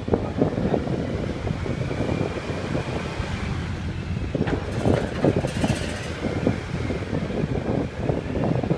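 Low rumble of the ferry Salvia Maru coming alongside the pier, with wind buffeting the microphone and a brief hiss about five seconds in.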